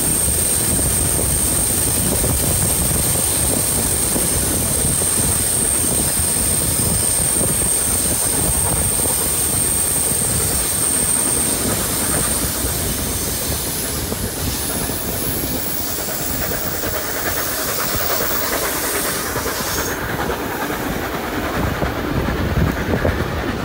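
A steam-hauled passenger train running, heard from a carriage window: steady rumble and rattle of the carriages and wheels on the rails, with wind noise. A thin, steady high tone runs through the first half and fades out about halfway, and sharper knocks from the wheels come near the end.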